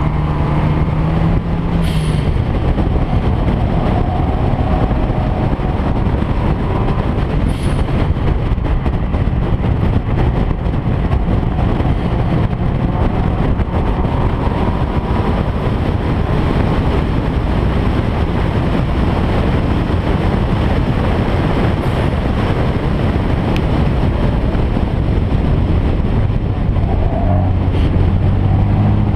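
A car running at steady speed, its engine drone mixed with continuous road and wind noise, the engine note dropping a little near the end.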